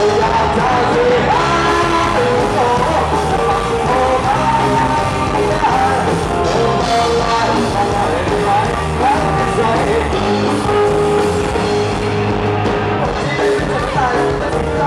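Live rock band playing a song in a large hall, a lead singer's voice over guitar, bass and drums.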